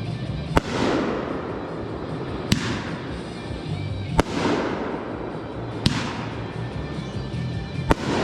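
Firework shells bursting in a steady series: five sharp bangs about every two seconds, each followed by a fading crackle.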